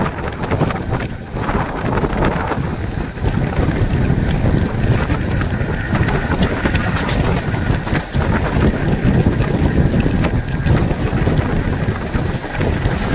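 Wind buffeting the microphone at the open door of a moving Mumbai suburban electric local train, over the steady running noise of its wheels on the rails, with scattered small clicks.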